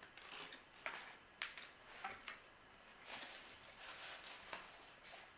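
Faint, close-miked chewing of a pizza crust, with a few soft wet mouth clicks. Near the end comes a soft rustle of hands brushing together.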